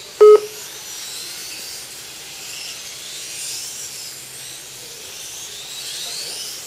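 High-pitched motor whines of radio-controlled race models, rising and falling in pitch as they pass. A short, loud electronic beep sounds just after the start.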